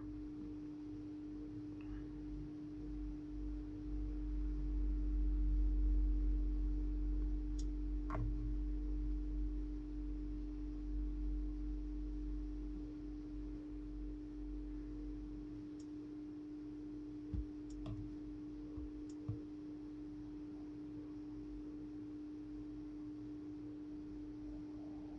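A steady, even hum at one pitch, with a low rumble that swells over the first few seconds and dies away about halfway through. A few sharp clicks come near the middle.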